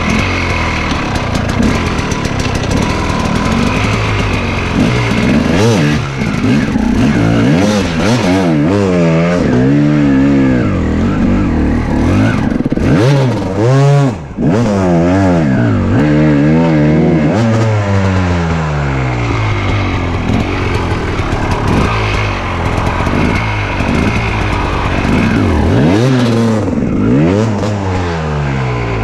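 KTM enduro motorcycle engine under constant throttle work, revving up and falling back again and again in quick swells as the bike picks its way over roots and branches. Near the middle it briefly drops low before picking up again.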